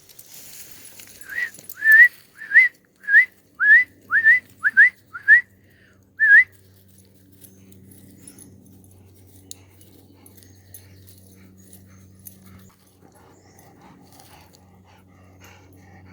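A dog giving a quick series of about nine short, high whines or yips that each rise in pitch, over about five seconds, then stopping.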